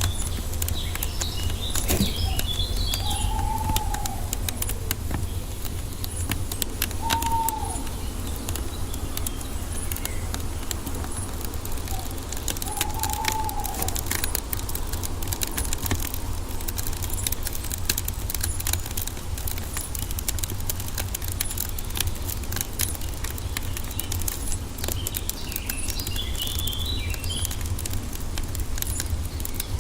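Wood fire crackling with frequent small pops over a steady low rumble, while birds call in the background: three short arched calls spread through, and brief twittering near the start and again near the end.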